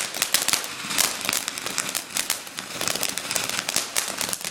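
Small firework burning and crackling: a fast, irregular stream of sharp crackles and pops.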